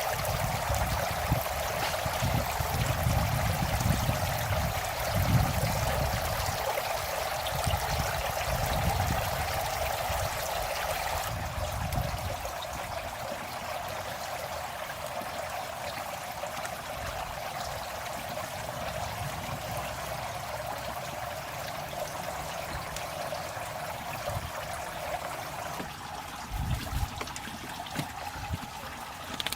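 Running water trickling steadily, with irregular low rumbling through the first twelve seconds or so and a few soft knocks near the end.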